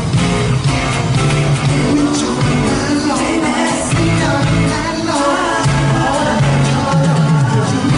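Live pop song with a singer over a band, a heavy bass beat pulsing steadily and the vocal line coming in about two seconds in.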